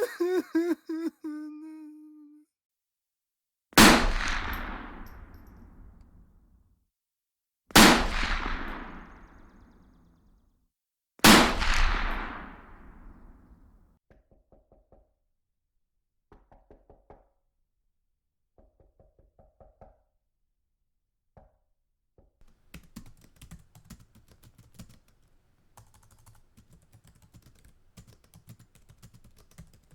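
Three loud, heavy impact hits about four seconds apart, each with a long fading tail, used as stock sound effects. They are followed by a few scattered soft clicks and then fast, busy clicking like typing on a computer keyboard.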